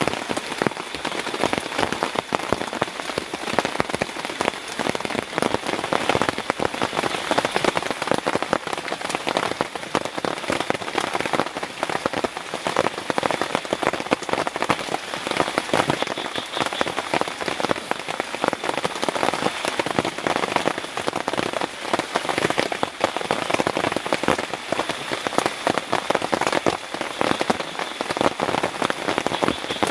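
Heavy tropical rain falling steadily, a dense patter of drops striking close by over an even rushing hiss.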